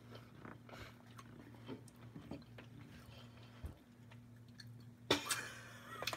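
Quiet close-up chewing of pizza rolls, with faint small mouth clicks over a steady low hum. A brief louder noise comes about five seconds in.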